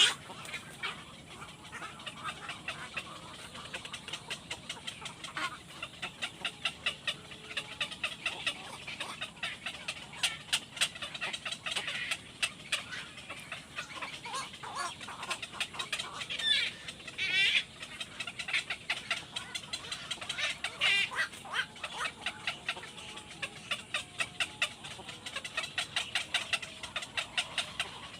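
Young birds cheeping over and over in many short, sharp calls, with a few longer wavering calls in the middle.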